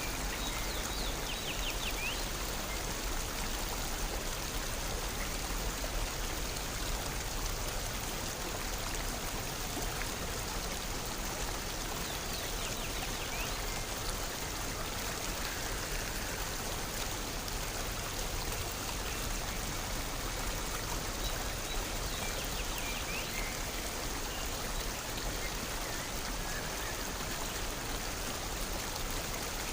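Stream water running steadily, with a faint high chirping three times, about ten seconds apart.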